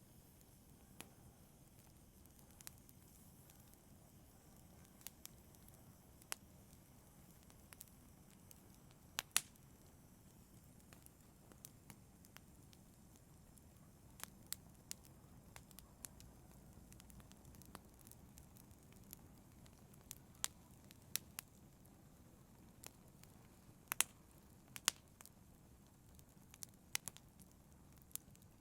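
Wood fire crackling in a fireplace: a soft steady low burn with irregular sharp pops and snaps, a few louder ones about a third of the way in and again near the end.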